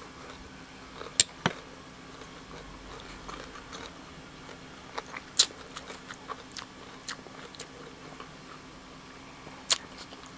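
Close-up mouth sounds of someone chewing a mouthful of noodles: soft chewing with a few sharp lip smacks scattered through, the loudest about a second in, in the middle and near the end.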